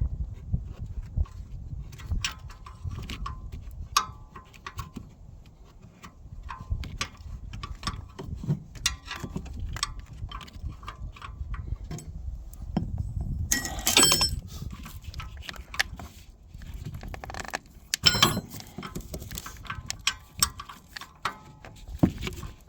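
Metal hand tools clicking, clinking and knocking against engine parts while bolts are worked loose, irregular sharp taps with a slight metallic ring and two louder rattling bursts, one about two-thirds of the way in and another shortly after.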